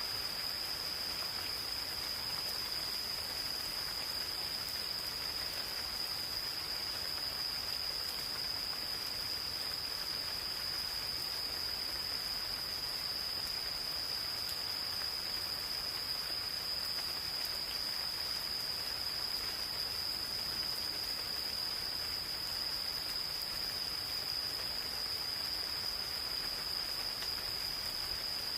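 Gentle rain falling in a forest, with a chorus of insects calling as one unbroken high-pitched trill.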